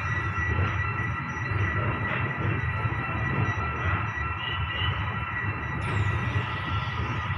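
Passenger train heard from on board as it pulls into a station: a steady rumble of the coaches running on the rails, with a constant high-pitched squeal held over it.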